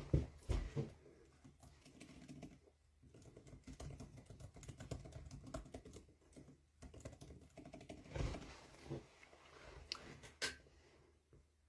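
Faint, irregular tapping and handling noises, like fingers tapping on a smartphone's touchscreen close to its microphone, with a few louder knocks near the start and one near the end.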